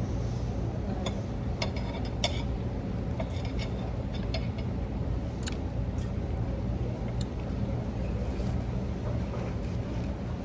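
Cutlery clinking and tapping against plates and glassware at a meal, a few light clinks at a time, over a steady low rumble.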